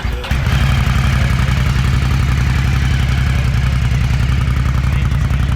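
A vehicle engine catches just after the start and settles straight into a loud, steady idle.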